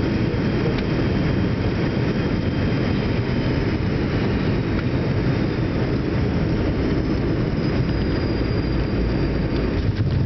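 Jet airliner rumbling steadily, with a faint high whine above it.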